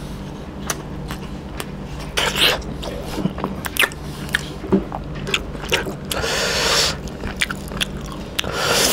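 Close-miked chewing of fried chicken innards and rice: wet mouth clicks and smacks coming irregularly, several a second. About six seconds in a hissing rush of noise lasts around a second, under a steady low hum.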